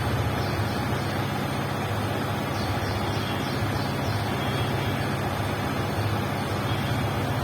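Yamaha MT-15's single-cylinder engine and exhaust running steadily at an even speed, with no revving.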